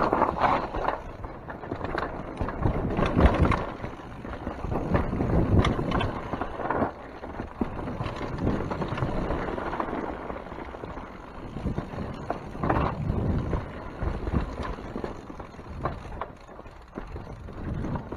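Mountain bike riding a wet forest trail: tyre noise and irregular knocks and rattles from the bike going over bumps, with wind on the microphone.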